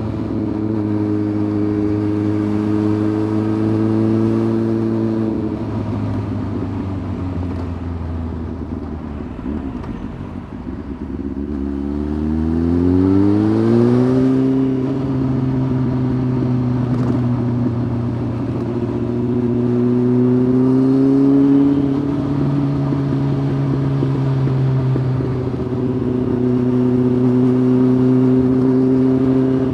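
Honda CBF 600 inline-four motorcycle engine with a titanium aftermarket sport exhaust, heard while riding. It runs at a steady speed, falls off and quietens as the throttle closes, then climbs steadily in pitch under acceleration before a brief lull. It cruises on, with a short rise and a sudden drop in pitch about two-thirds of the way through.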